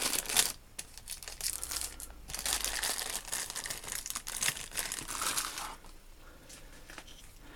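Crinkling, rustling handling noise in bursts, near the start and again from about two to six seconds in, then fading.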